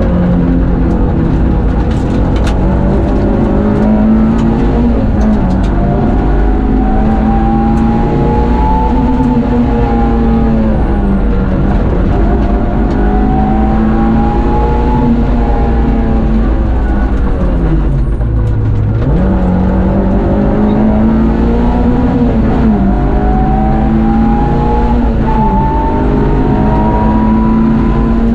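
Rally car engine heard from inside the cockpit at stage pace, the revs climbing and dropping again and again through the gears. About two-thirds through the revs fall sharply to a low note, then climb hard once more.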